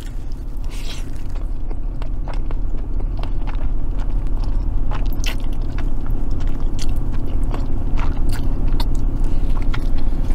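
Close-up chewing and biting of a mouthful of spaghetti, with many small wet mouth clicks, and a fork scraping in a plastic takeout tray near the end. A steady low hum runs underneath.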